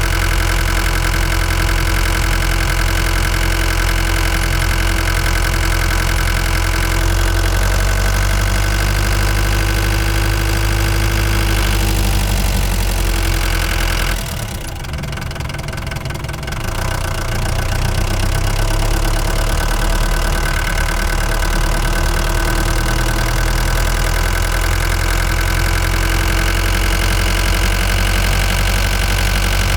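Ford Transit Mk5 van engine running while driving, a steady note that drops away briefly about halfway through before picking up again.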